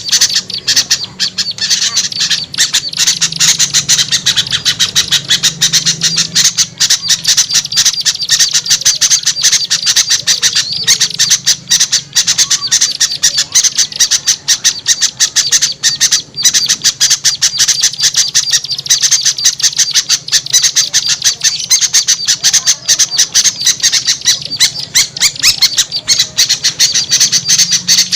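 A dense, unbroken chorus of small songbirds' rapid chattering and squawking calls: a bird-lure recording that mixes the calls of noisy small birds such as bulbuls, used to draw wild birds down. A faint low hum runs underneath.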